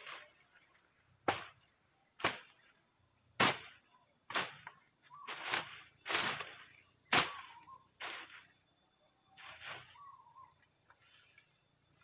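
A series of about nine sharp knocks or chops at an uneven pace, roughly one a second, typical of a blade or tool striking wood while a shelter is built. A steady high insect drone runs underneath.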